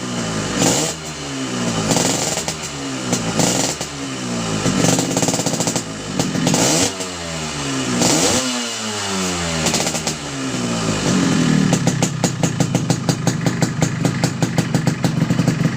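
Yamaha RX-King's two-stroke single-cylinder engine, fitted with a racing-style aftermarket exhaust, blipped repeatedly: quick rises and falls in revs about once a second. About eleven seconds in, it settles into a steadier, lower run with a fast, even popping pulse.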